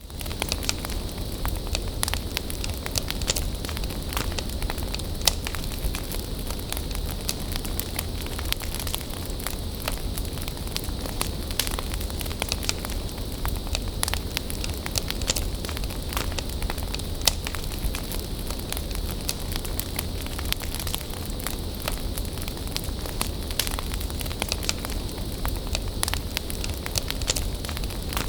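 Bonfire burning steadily, with a low rumble under frequent irregular crackles and pops.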